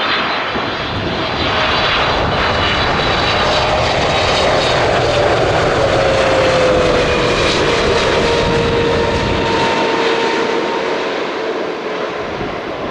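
A Boeing 777F's twin GE90 turbofans passing on final approach. The jet noise swells to its loudest about halfway through and then fades, with a whine that falls in pitch as the plane goes by.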